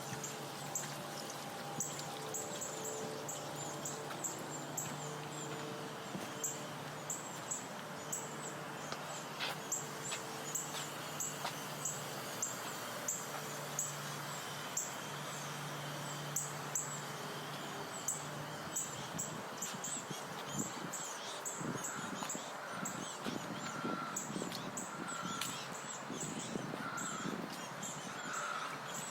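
Footsteps of a walker, ticking about twice a second, over a steady low hum. Short bird calls repeat over the last third.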